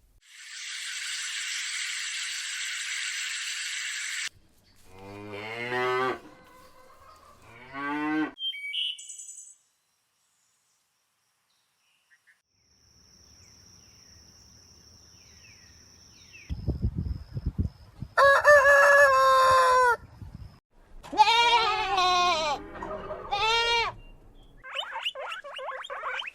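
A string of separate animal calls with gaps between them: a steady hiss for the first few seconds, then two short calls, a pause, and several loud pitched calls in the last third.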